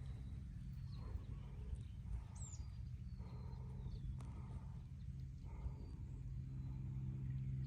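A rice harvester's engine running with a steady low drone. A few bird chirps sound above it.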